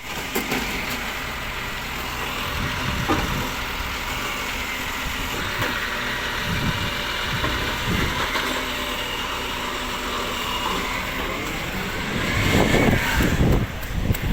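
Diesel engine of a rubbish collection truck running steadily, with a louder surge of noise and a brief squeal near the end.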